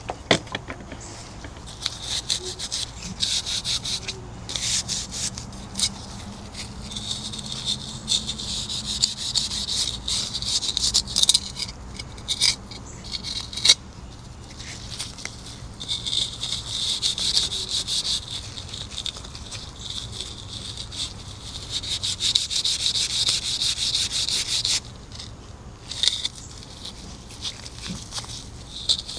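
Hand scrubbing strokes rubbing across a hard surface, a rasping sound in quick continuous runs, pausing briefly near the end.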